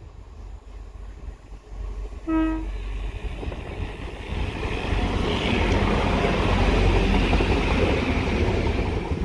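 A Class 175 diesel multiple unit sounds a single short horn note about two seconds in, then passes close by, its diesel engine and wheels on the rails growing loud and peaking about six to eight seconds in.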